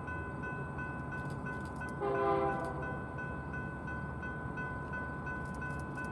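Railroad grade-crossing bell ringing steadily, about three strokes a second, with a short blast of a distant locomotive horn about two seconds in.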